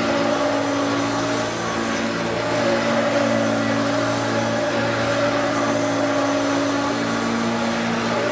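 Hoover Turbopower U2332 upright vacuum cleaner running steadily, its motor giving a constant hum with a few steady tones over a rushing airflow hiss.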